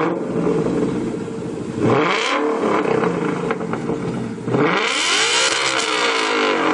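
Car engine idling and revved twice: a short blip about two seconds in, then a longer rev that climbs and falls back to idle about five seconds in.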